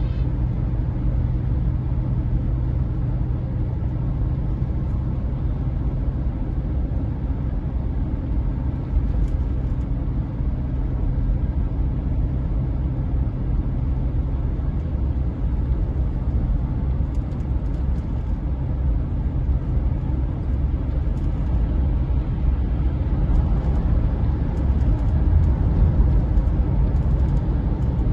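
Steady low rumble, with faint light ticks now and then in the second half.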